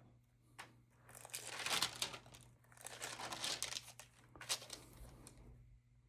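Paper crinkling and rustling from a stamp album and booklet being handled, in irregular bursts for about four seconds, loudest about two seconds in and again near four and a half seconds, then stopping.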